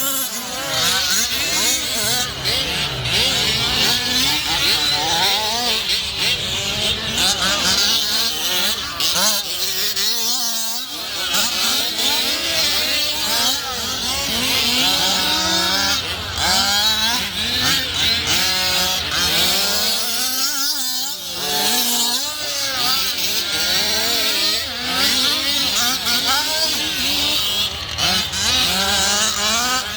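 Several small two-stroke engines of gas-powered 1/5-scale RC cars racing. They rev up and down over one another, with the pitch rising and falling as the cars speed up and slow down, and they ease off briefly twice.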